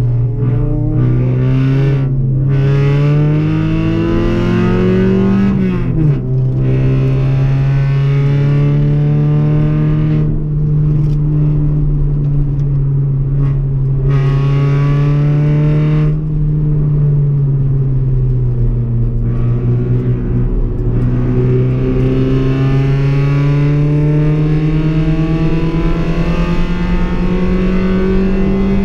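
Car engine under hard acceleration on a racetrack, its pitch climbing through the revs with a sudden drop at an upshift about six seconds in. It holds high, sags as the driver lifts about two-thirds of the way through, then climbs again to another sudden drop near the end.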